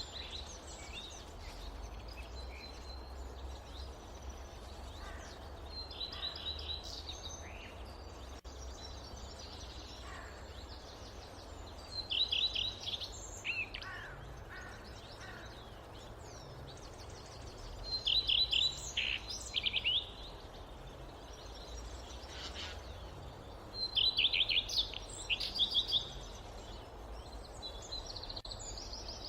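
Forest songbirds singing: one bird repeats a quick run of high notes about every six seconds, with scattered chirps from others, over a steady low rumble.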